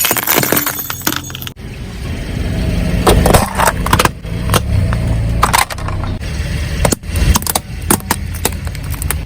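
A car rolling over objects, its tyres crushing them with a string of sharp cracks and crunches over a low engine rumble.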